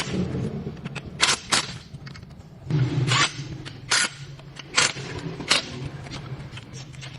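Six sharp knocks at uneven intervals over a steady low hum.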